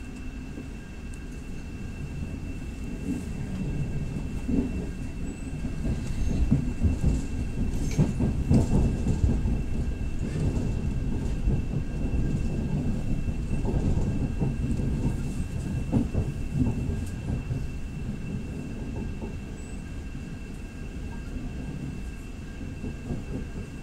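Electric passenger train running along the line, heard from inside the carriage: a steady low rumble of wheels on rail with clacks over joints and points. It swells to its loudest in the middle and eases off toward the end, with a faint steady high whine underneath.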